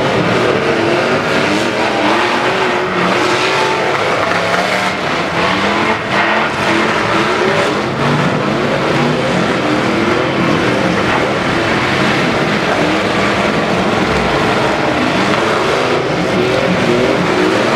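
Many demolition derby trucks' engines revving hard together, pitches rising and falling over one another, with a few sharp knocks from collisions.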